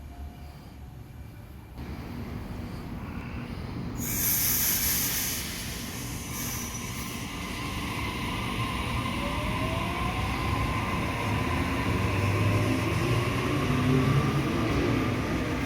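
Electric suburban passenger train on the rails, growing steadily louder, with a loud burst of hiss about four seconds in and a tone that slowly rises in pitch.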